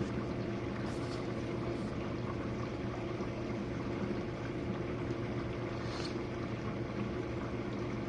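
Jenn-Air dishwasher in its wash cycle: the pump motor runs with a steady hum while water sprays inside the tub.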